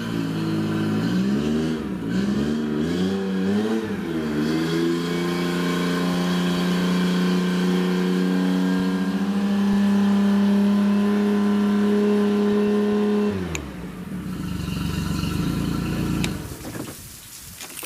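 Boat engine running on hose-fed cooling water after six months laid up. It is revved up and down a few times, then held at a steady faster speed. About 13 seconds in it drops sharply and runs down rougher until it stops near the end.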